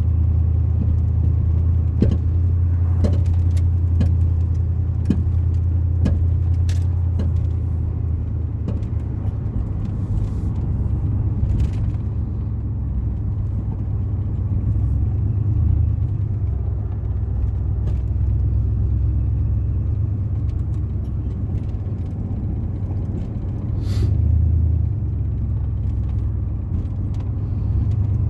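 Car driving, with a steady low rumble and scattered small knocks and rattles.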